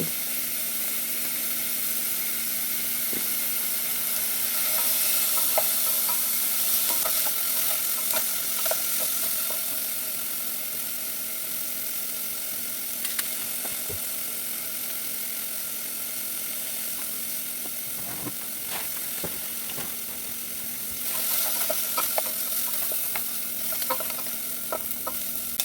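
Onions and celery sautéing in oil in a pan: a steady sizzle with scattered taps and scrapes of a utensil stirring. The sizzle swells louder about five seconds in and again near the end.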